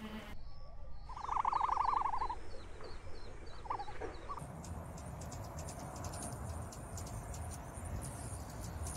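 A rapid animal trill lasting about a second, over faint repeated high chirps. Then a bird feeder with several hummingbirds gives quick, high, sharp ticking chips.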